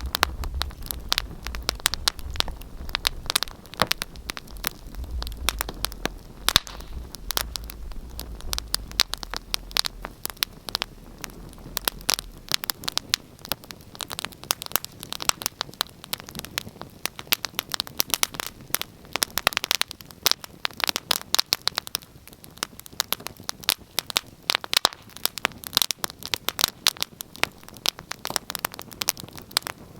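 Wood fire in a fireplace crackling, with many irregular sharp pops and snaps. A low rumble sits underneath for the first twelve seconds or so, then stops.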